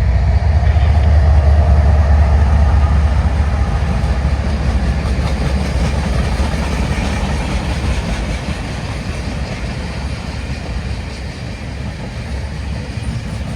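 Diesel-powered CSX manifest freight train passing, a heavy low rumble of locomotive engines and rolling wheels. It is loudest in the first several seconds and then eases slowly as the train rolls by.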